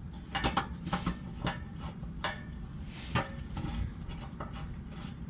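Scattered light metal clinks and knocks, about a dozen over the few seconds with the sharpest about three seconds in, from handling the skid plate and starting its 12 mm hex bolts by hand.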